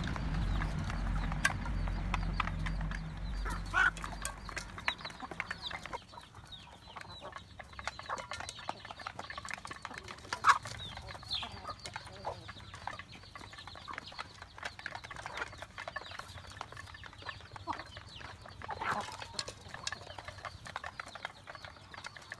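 Chickens clucking now and then, a few short calls over many small ticks and taps. A low rumble runs through the first few seconds and then stops.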